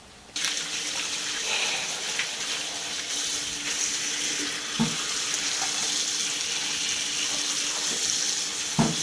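Kitchen tap running water into a sink, coming on abruptly about half a second in, with two light knocks, one around the middle and one near the end.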